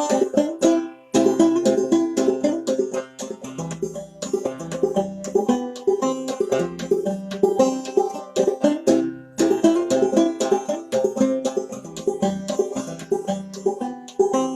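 Solo five-string banjo played in the old-time clawhammer style: a steady run of plucked, ringing notes with a short break about a second in.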